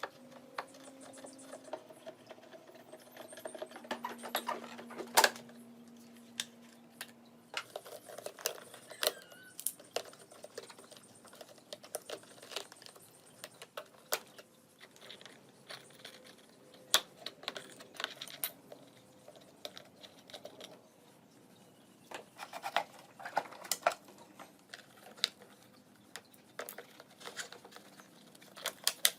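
Irregular clicks, taps and knocks of small parts and tools being handled during repair work. A faint steady hum runs underneath for the first seven seconds or so.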